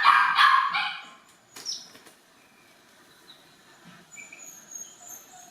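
A dog barking a few times in the first second, then quiet except for faint high bird chirps near the end.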